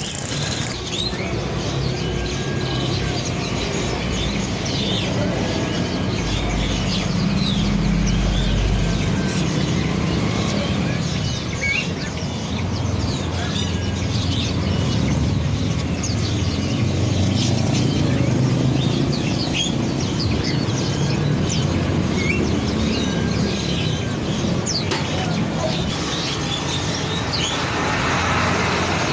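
Small songbirds chirping and twittering in quick short notes, over a steady low rumble.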